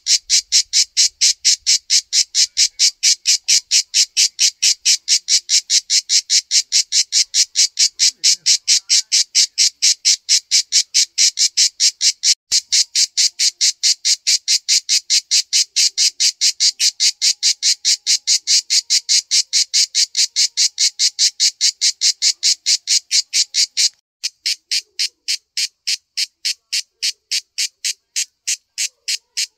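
Cicada singing: a loud, high-pitched train of rasping pulses, about three a second, held at an even pace.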